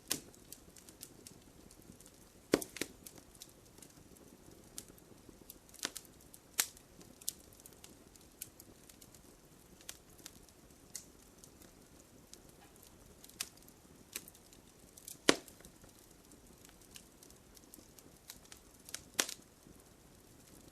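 Wood campfire crackling: irregular sharp pops and snaps from the burning wood, a few louder cracks among many small ticks, over a faint hiss.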